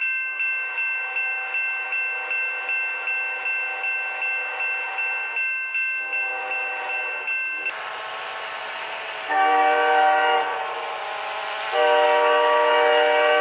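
A railway crossing bell ringing rapidly and evenly while a train's multi-tone horn sounds a held chord. Then a train passes with a loud rushing noise and gives two long blasts of its chime horn, the second longer.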